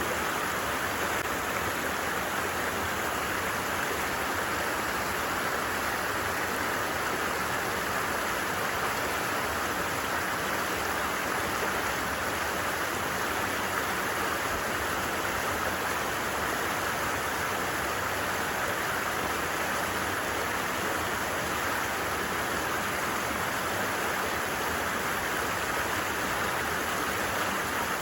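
Steady rushing and babbling of a flowing stream.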